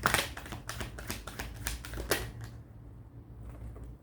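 Tarot cards being handled and laid down on a table: a quick run of light clicks and taps that stops about two seconds in.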